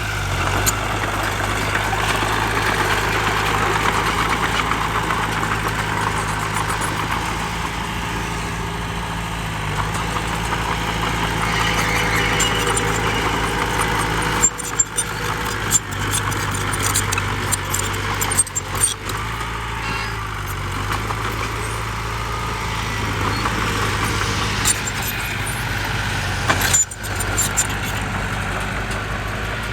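Heavy diesel engine of earth-moving machinery running steadily, with a few short sharp knocks around the middle and near the end.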